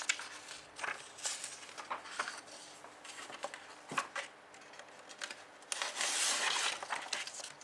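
Pen strokes scratching and tapping on a writing surface: short scratches and taps, then a longer, louder scratching stroke about six seconds in.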